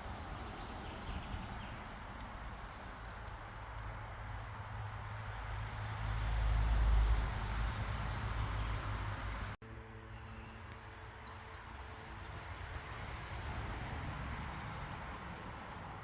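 Outdoor ambience of wind rushing on the microphone, with a heavier gust about six to eight seconds in. After an abrupt cut near ten seconds, birds chirp over the wind.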